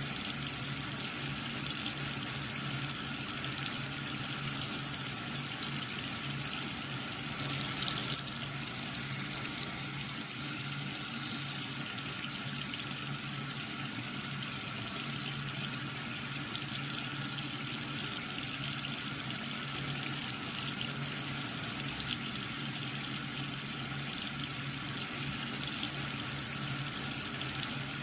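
Water running and splashing steadily from a small pump's spray, with a low steady hum underneath. The flow swells briefly about eight seconds in.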